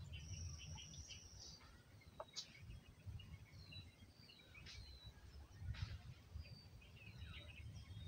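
Faint chirps and whistles of several small birds: short, sliding notes with one higher whistle held for about a second near the start, and a few short sharp ticks. A low rumble runs underneath.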